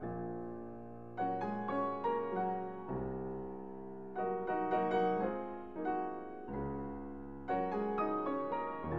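Gentle solo piano music: slow chords and melody notes, each struck and left to ring, with the harmony changing about once a second.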